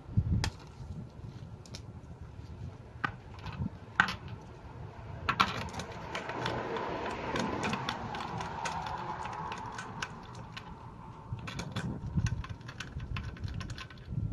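Scattered metallic clinks and knocks of hands and tools working on a truck wheel, with a low thump at the start and a longer scraping, rustling stretch in the middle.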